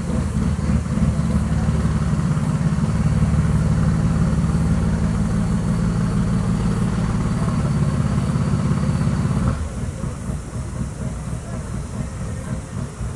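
Heavy race truck's diesel engine running steadily at idle with a deep, even note. About three-quarters of the way through the loud engine tone cuts off abruptly, leaving a quieter rumble.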